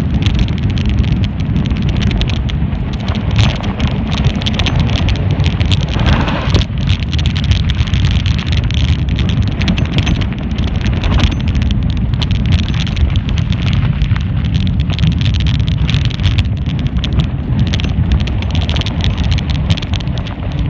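Mountain bike being ridden, its frame and parts rattling and clicking, under a constant low rumble of wind on the microphone.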